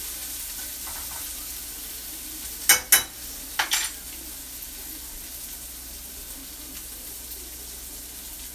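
Sliced onions sizzling steadily in a frying pan. About three seconds in come two sharp clacks, and a moment later two more.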